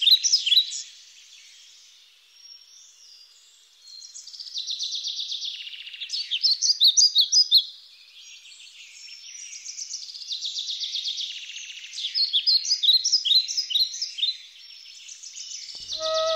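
A chorus of high chirps and fast trills from small animals, rising and falling in waves, faint for the first few seconds. Music comes in at the very end.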